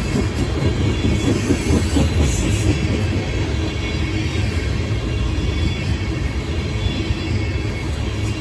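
A train rolling past close by: a steady, heavy rumble of rail cars on the track, with a few brief high squeals or hisses from the wheels in the first few seconds.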